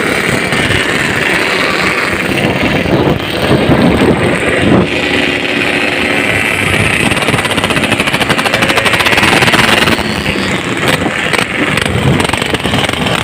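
Yamaha RX-King two-stroke motorcycle engines running loudly, with the engine pitch rising in revs about four seconds in and again near ten seconds.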